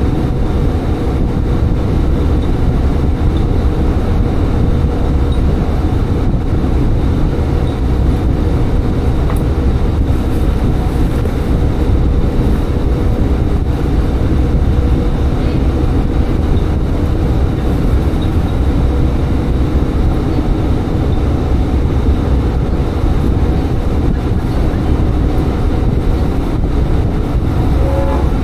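Tsugaru Railway diesel railcar running steadily along the line, a continuous low engine and wheel-on-rail rumble.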